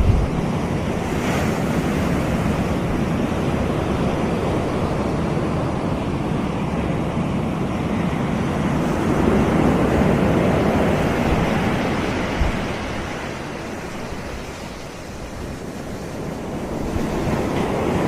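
Waves breaking and washing onto a Caribbean beach: a continuous surf noise that swells about halfway through, eases off a few seconds later and builds again near the end.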